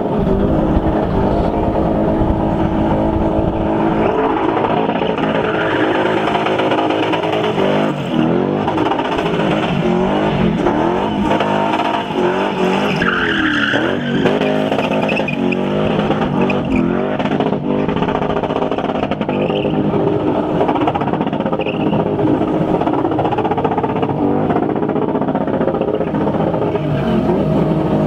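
A spinning car's engine revved hard and held high while its rear tyres spin and smoke as the car turns tight circles. The revs rise and fall over and over.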